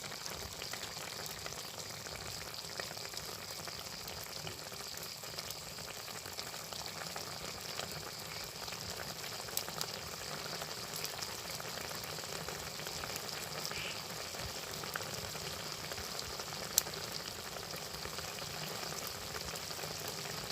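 Chicken for adobo sizzling in a pan: a steady sizzle with two sharp clicks, one about halfway through and one near the end.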